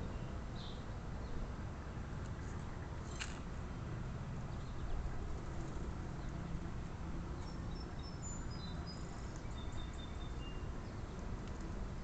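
Outdoor ambience: a steady low rumble, with faint, short, high bird chirps from about seven to ten seconds in and one sharp click about three seconds in.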